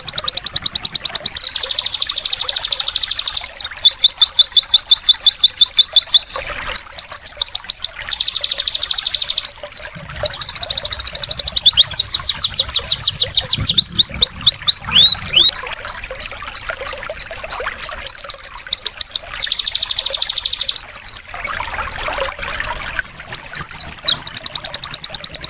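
Oriental white-eye (pleci) song: long runs of fast, high, rapidly repeated notes and trills, with brief breaks between phrases, over trickling water.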